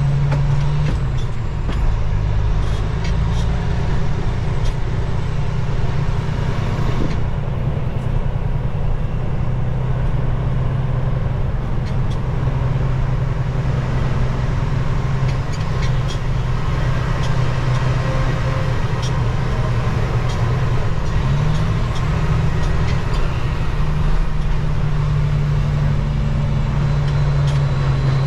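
Semi truck's diesel engine running steadily under way as the truck drives, a constant low drone that shifts pitch slightly now and then.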